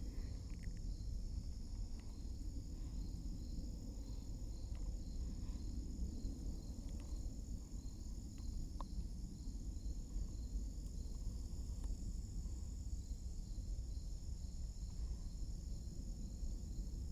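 Steady, high-pitched chorus of insects calling, with an even pulsing rhythm, over a low rumble of outdoor background noise and a few faint clicks.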